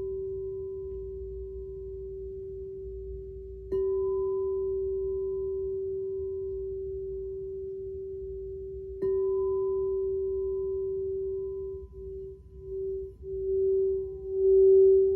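Singing bowl struck twice, each strike ringing out as a steady pure tone that slowly fades. From about twelve seconds in the bowl is rimmed, so the tone swells and pulses.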